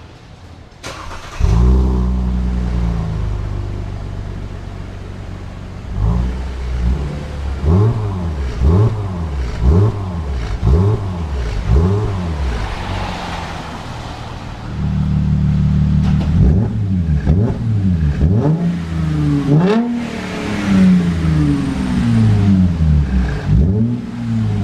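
Mercedes-Benz E350 (W207) 3.5-litre V6 through a variable-valve performance exhaust. It starts about a second and a half in, runs at a fast idle that slowly settles, then is blipped in quick revs about once a second. It idles steadily for a moment past the middle, then is blipped again.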